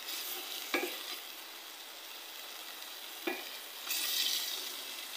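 Margarine sizzling in a hot stainless steel pot while a wooden spatula stirs it, with two knocks of the spatula against the pot, about a second in and again past three seconds. The sizzle swells briefly near four seconds as a spatula-load goes into the hot fat.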